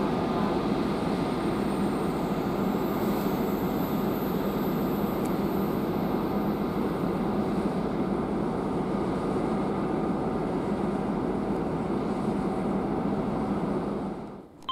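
Electric train running at a station: a steady rushing noise with a constant low hum, which cuts off abruptly near the end.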